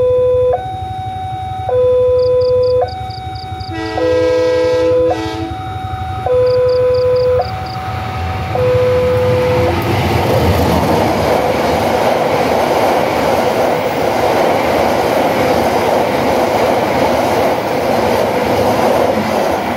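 Level-crossing warning alarm sounding a repeating two-tone electronic chime, low and high tones alternating about once a second. About four seconds in, the approaching locomotive's horn blows once for about a second and a half. From about ten seconds on, a passenger train passes through the crossing, and the rumble and clatter of its wheels on the rails drowns out the alarm.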